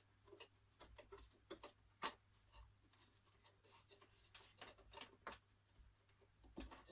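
Faint, scattered plastic clicks and taps from handling the vacuum cleaner's body and filter housing as the filter is seated, with one sharper click about two seconds in.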